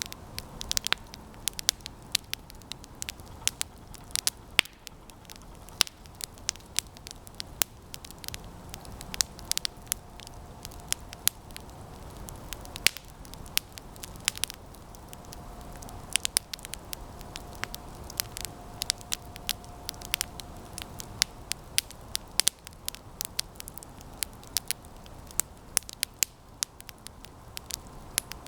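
Campfire of resinous pine branches burning, crackling with frequent irregular sharp pops and snaps over a low steady rush of flame. A faint thin whistle comes and goes a couple of times.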